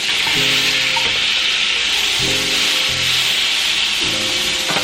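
Butter and food sizzling in a hot skillet, with a utensil scraping against the pan, over background music.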